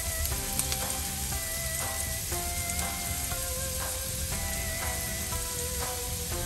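Chopped onion and minced garlic sizzling steadily in hot oil in a nonstick frying pan.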